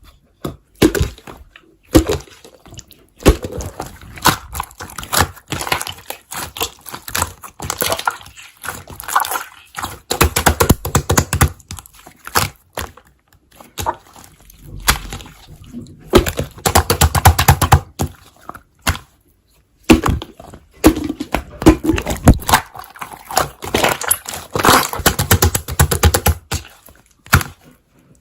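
Hands playing with slime: a dense run of crackling, popping clicks and squishes, in bursts with a few short lulls.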